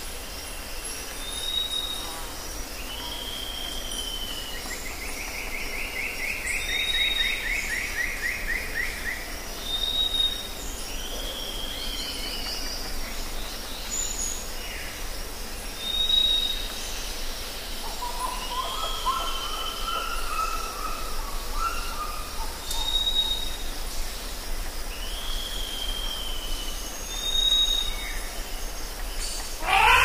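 Several birds singing over a steady outdoor hiss. A short high whistle repeats every few seconds alongside slurred, falling notes, a fast trill comes in about six seconds in, and a lower warbled phrase comes around twenty seconds in. A louder sound breaks in right at the end.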